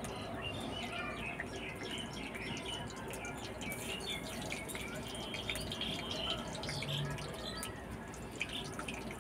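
Small birds chirping and twittering over and over, over a steady background hiss, with scattered faint clicks.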